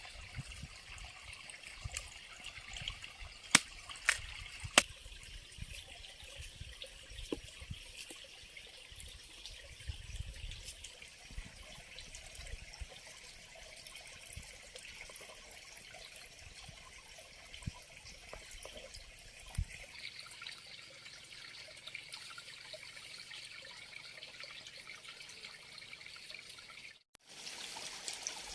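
Water trickling steadily, like a small stream, with a few sharp clicks about four seconds in and low rumbling bumps through the first two-thirds.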